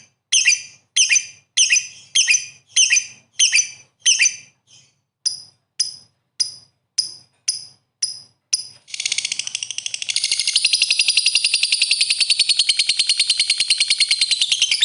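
Lovebird calling: sharp, high chirps repeated evenly about every 0.6 s, then about 9 s in it breaks into a continuous fast chattering trill that grows louder a second later. This is the long rapid chatter that lovebird keepers call ngekek.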